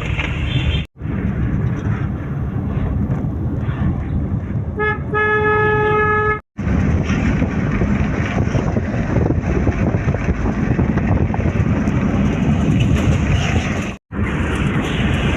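Steady road traffic noise with a vehicle horn honking once about five seconds in, held for about a second and a half. The sound breaks off briefly three times where short clips are joined.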